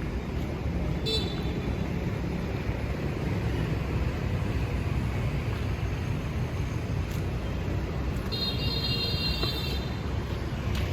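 Steady rumble of city street traffic, with a short vehicle horn beep about a second in and a longer horn blast near the end.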